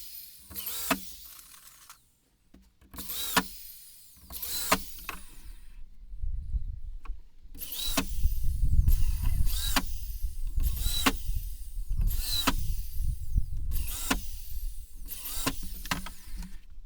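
Power drill run in a series of short bursts, each a brief whine that winds down, about a dozen over the stretch. A steady low rumble joins from about six seconds in.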